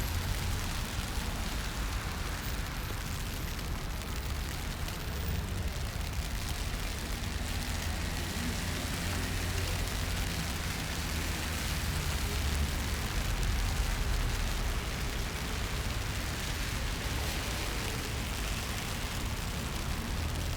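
Steady rain on a city street, an even hiss, over a constant low rumble.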